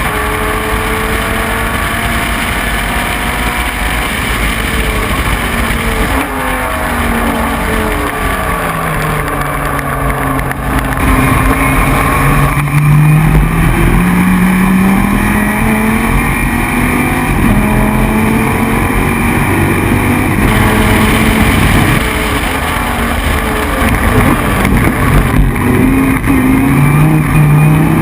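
Dodge Viper GT3's V10 engine at racing speed. Its pitch falls for the first few seconds as the car slows. From about a third of the way in it gets louder and climbs repeatedly in steps, each climb broken by a short drop as it changes gear.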